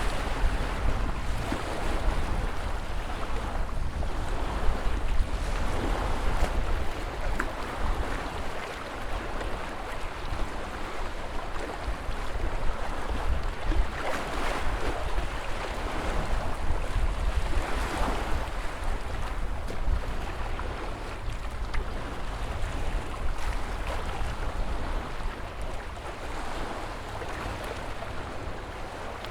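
Ocean surf: waves breaking and washing in, swelling several times, over a steady low rumble.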